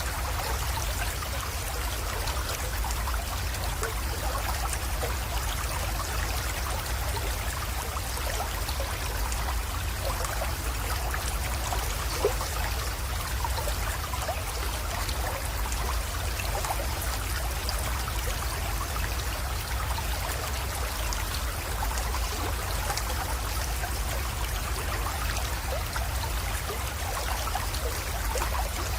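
Small creek water trickling and flowing steadily, with one brief click about midway.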